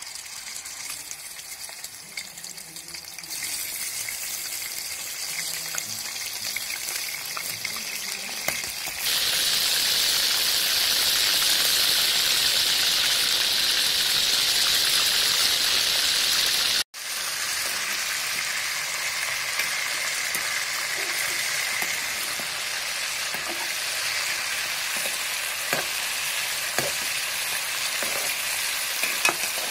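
Raw chicken pieces sizzling as they fry in hot oil in an aluminium pot, the sizzle growing louder about three seconds in and again about nine seconds in. It cuts out for an instant a little past halfway, then goes on steadily with a few light clicks near the end.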